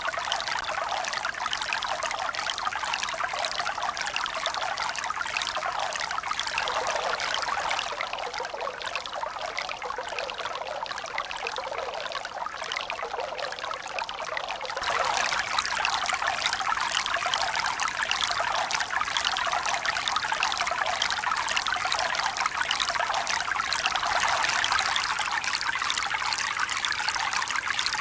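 Steady running water, trickling and splashing without pause. About halfway through it jumps abruptly louder and brighter.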